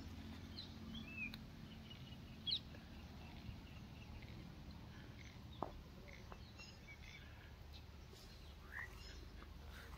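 Faint, scattered bird chirps, a few short calls several seconds apart, over a low steady outdoor background hum.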